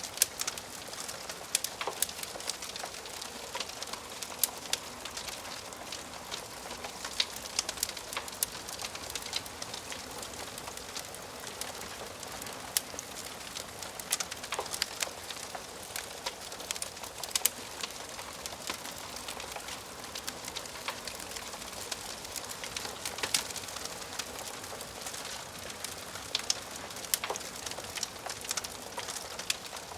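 Wood fire crackling in a fireplace: a steady soft hiss with frequent, irregular sharp pops and snaps from the burning wood.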